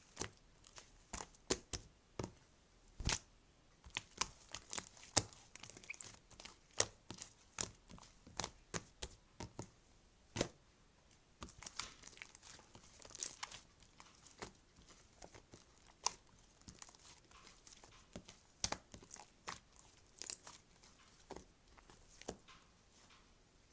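Irregular sharp clicks mixed with crinkling and rustling, as of something being handled, torn or crumpled close up.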